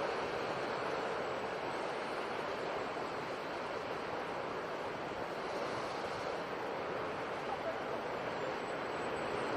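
Ocean surf: a steady rushing wash of waves that eases a little mid-way and builds again near the end.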